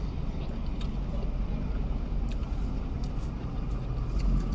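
Steady low rumble of road traffic heard through open car windows, with a few faint clicks.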